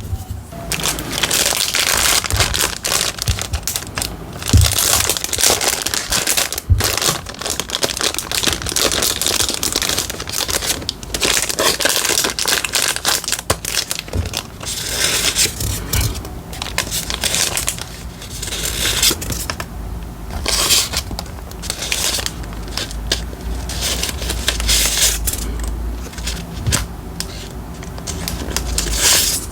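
Continuous crinkling and rustling of paper and plastic being handled for diary decorating, with many small sharp crackles and a few soft taps.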